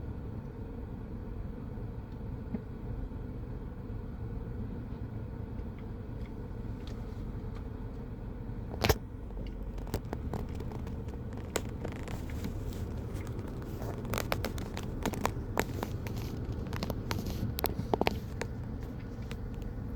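Steady low rumble of vehicle traffic, with scattered sharp clicks and pops. The loudest pop comes about nine seconds in, and the clicks grow denser in the second half.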